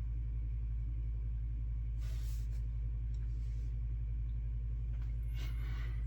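Steady low background hum with no speech, and two faint brief rustles or scrapes, one about two seconds in and a longer one near the end.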